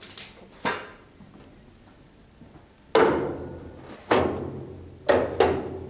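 A run of about six heavy knocks on a steel car body, each ringing briefly, the loudest about three seconds in. These are bangs on the shell while a door is being shifted a millimetre or two to set its gaps.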